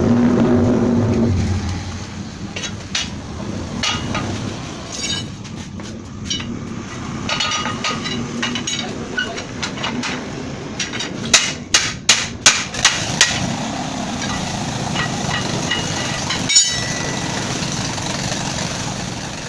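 Hammer blows during dump-truck tyre repair: scattered lighter knocks, then a quick run of about six sharp strikes a little past halfway, over a steady low hum.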